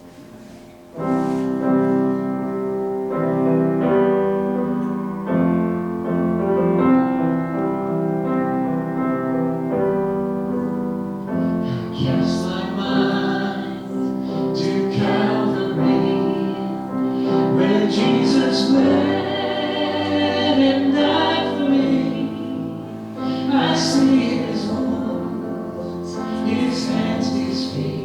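A modern hymn played on keyboard, starting about a second in with a held-chord introduction. Voices join in singing from about twelve seconds in.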